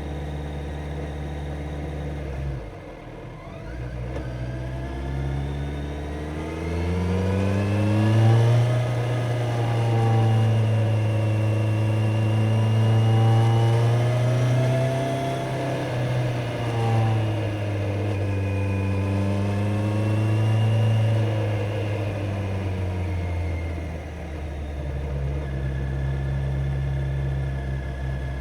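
Kawasaki Z900's inline-four engine under way: a brief dip in revs a couple of seconds in, then it pulls up in pitch and holds high revs, with a short drop in the middle like a gear change, and eases back down near the end.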